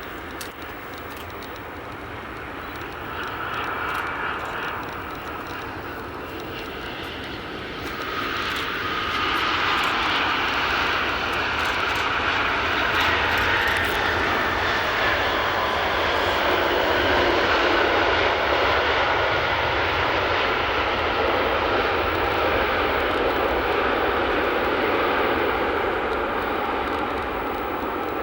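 Rolls-Royce Trent 1000 jet engines of a Boeing 787-8 Dreamliner coming in to land. The roar swells about eight seconds in and stays loud, with a whine that slowly falls in pitch as the plane passes.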